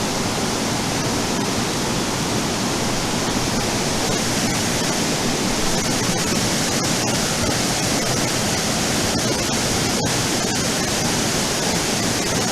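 Mountain stream water flowing, a loud, steady rush.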